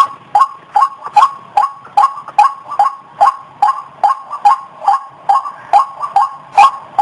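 White-breasted waterhen giving its repeated call, short pitched notes at about two and a half a second in a steady, unbroken rhythm.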